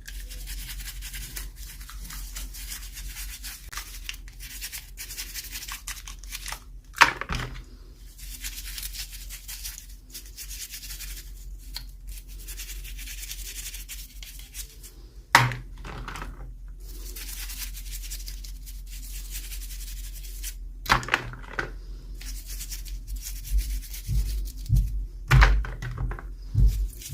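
Toy packaging being handled and opened: steady rubbing and scratching with a few sharp knocks, about seven, fifteen and twenty-one seconds in, and a run of low thumps near the end.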